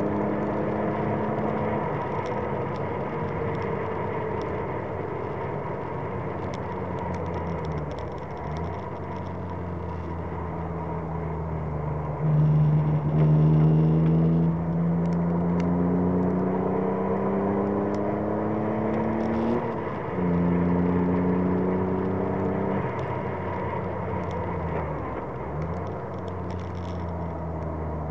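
Alpine A310 V6's engine heard from inside the car at track speed: its pitch sinks as the car slows for a corner, then climbs hard under acceleration, loudest as it pulls out of the corner, with a gear change about twenty seconds in.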